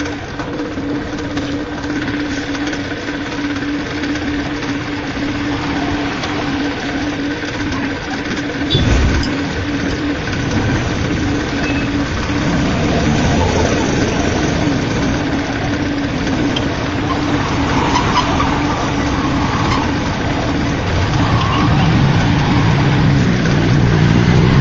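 An engine runs steadily with a constant hum. There is one thump about nine seconds in, and the sound grows louder and busier in the second half.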